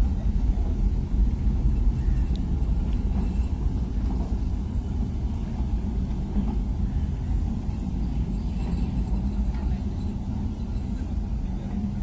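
Low, steady rumble of a miniature train's coaches rolling past on the track and moving away, slowly fading.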